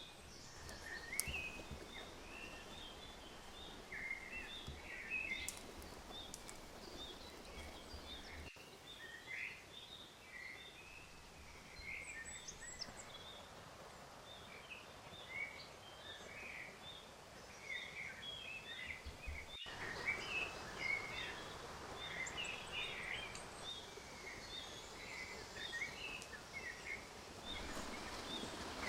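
Small birds chirping, with many short, overlapping calls throughout over a faint steady hiss of outdoor background. The background breaks off abruptly twice, about a third and two thirds of the way in.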